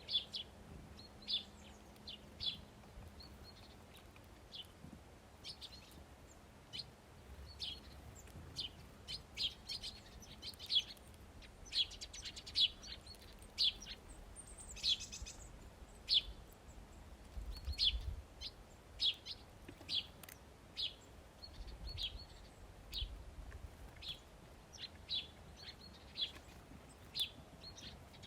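Small birds chirping: a run of short, high, repeated chirps, about one or two a second.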